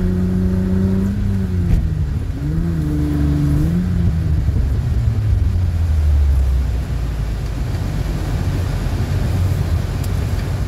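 Car engine heard from inside the cabin, revving up and down over the first few seconds, then settling into a steadier low rumble with road noise.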